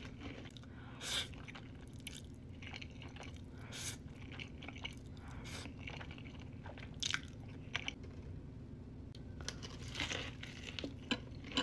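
Close-miked eating sounds: irregular crunching bites and chewing of food, over a steady low hum.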